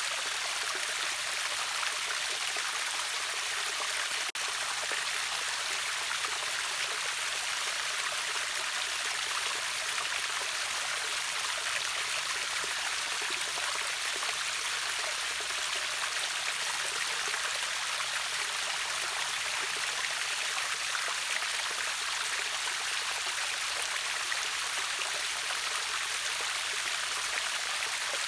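Steady rushing of river water over a waterfall: an even, unbroken hiss weighted toward the high end, with no distinct splashes.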